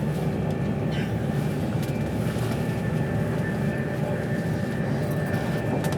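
Inside the cabin of a passenger train running at speed: a steady rumble of wheels on the track, with the car's faint constant hum and a few light clicks.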